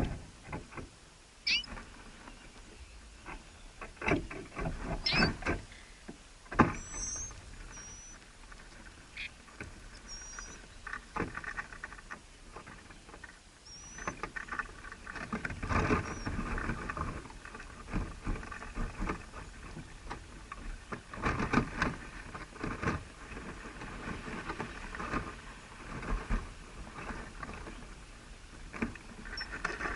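Birds moving about, with irregular scratching, rustling and knocks. A few faint, short, high chirps come in the first half.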